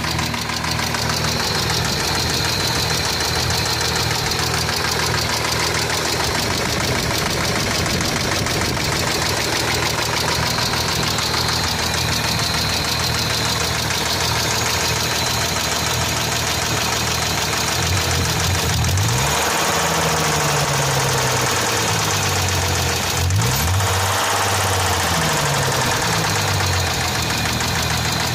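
Hyundai Tiburon's 2.7-litre V6 running with a fast, steady knocking tick, revved briefly a few times in the second half. The owner wonders whether the knock comes from the valves.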